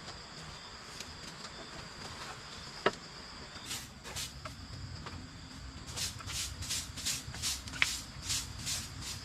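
Insects, likely crickets or cicadas, buzzing steadily in high tones. Two sharp clicks sound, one about three seconds in and one near the end. Over the last few seconds there is a rhythmic run of short scraping strokes, about three a second.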